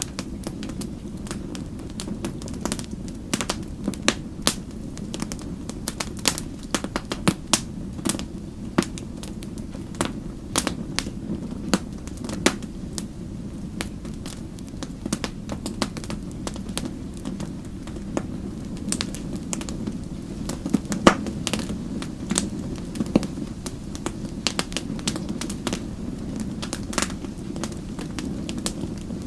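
Wood fire crackling: frequent irregular sharp pops and snaps over a steady low rush of the flames, with one louder pop about two-thirds of the way through.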